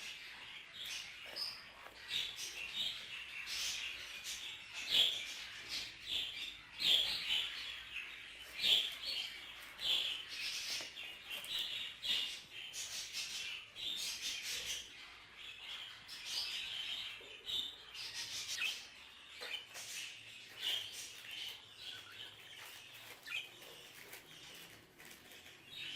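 Budgerigars chattering: a continuous run of short, high chirps and warbles with no pause.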